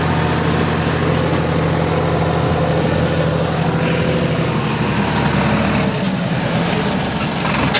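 Sonalika tractor's diesel engine running steadily at idle; its deep low note thins out about six seconds in.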